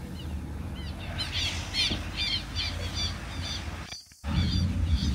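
Birds calling in a quick series of short squawks, several a second, over the low rumble of a car driving. Everything cuts out briefly near the end.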